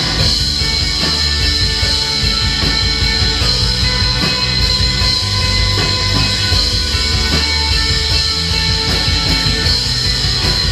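Live band playing loud rock music: electric guitars, bass and drums in a dense, continuous wall of sound with sustained low notes.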